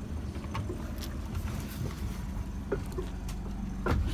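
Boat engine idling in neutral, a steady low hum, with a few light clicks and knocks over it.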